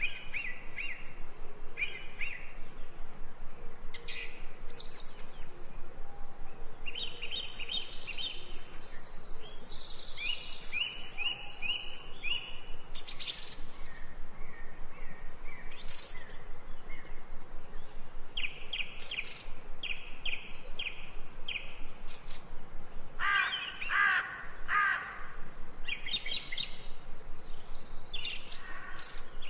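Several songbirds chirping and calling in an ambient nature recording, with short repeated chirps and quick trills overlapping throughout.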